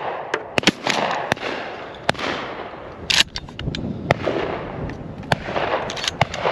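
Shotguns firing repeatedly from several shooters at pheasants, irregular single shots and quick strings, some loud and near, others fainter, with a burst of several shots near the end.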